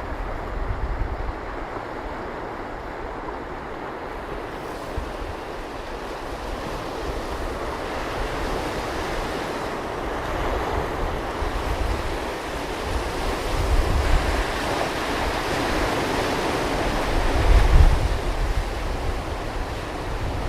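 Ocean surf: a wave building and washing in, the roar swelling slowly to its loudest near the end, with gusts of wind rumbling on the microphone.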